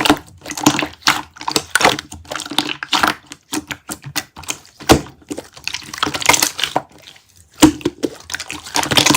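Sky-blue slime being squished and pressed by hand, giving quick runs of crackling clicks and crunches, with a short lull about seven seconds in.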